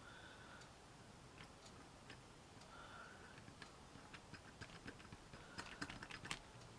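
Near silence with faint, scattered small clicks and ticks from handling small craft pieces, growing more frequent near the end. A faint short tone comes back about every three seconds.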